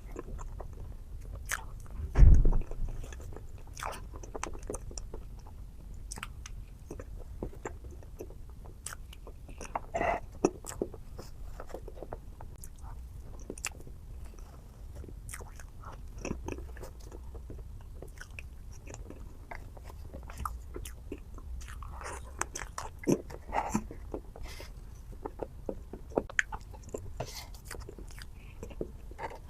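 A person eating chocolate dessert close to the microphone: bites and chewing with scattered crunches and small sticky clicks throughout. One loud low thump about two seconds in.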